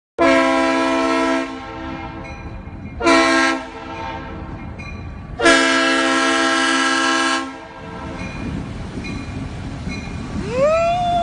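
Locomotive air horn sounding three blasts (long, short, long), each a multi-note chord, over the steady low rumble of a passing train.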